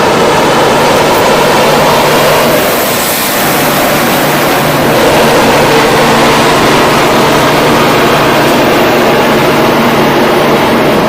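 Loud, steady rumble and hiss of an Indian Railways express train heard from aboard, with a constant low hum underneath and a short dip in level about three seconds in.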